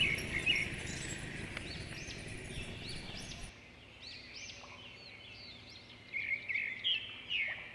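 Small birds chirping in repeated short, high, arched notes, with a louder run of chirps about six seconds in. A steady rushing noise lies under the first half and stops abruptly about three and a half seconds in.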